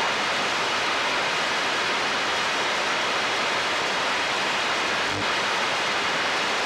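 Steady hiss of static from a CB radio receiver on an open channel between transmissions, with no signal coming through.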